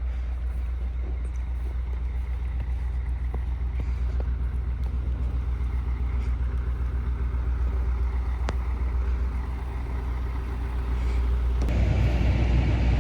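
Truck engine idling with a steady low rumble, growing louder and fuller near the end.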